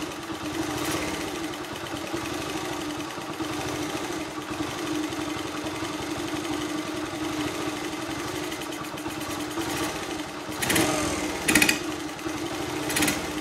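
1981 Honda C70 Passport's small single-cylinder four-stroke engine idling steadily, with a few short louder bursts near the end. The bike is freshly revived after a carburetor clean and a freed stuck float: it idles but dies out when revved, which the owner blames on a dirty sediment bowl.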